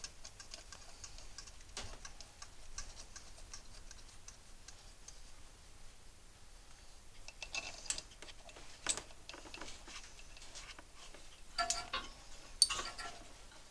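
Faint small metallic clicks and ticks of bolts and hand tools being worked while the ignition coil's mounting bolts are started back in, with a few sharper taps about two-thirds of the way through and near the end.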